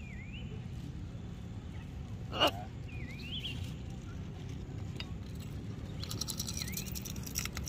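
A bird chirping a few short whistled notes that dip and rise, over a steady low rumble. One sharp knock comes about two and a half seconds in, and a quick run of high clicks near the end.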